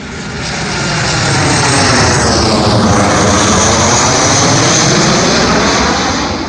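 Airliner passing close by with its engines running, the noise swelling over the first couple of seconds, holding loud, then beginning to fade near the end.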